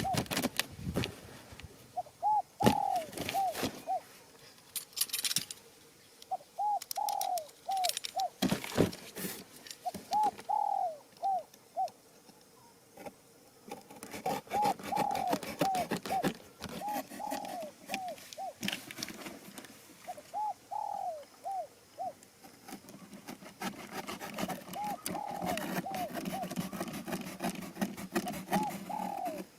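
Doves calling in repeated short series of rising-and-falling notes, a group every few seconds. Occasional sharp knocks and clicks come between the calls.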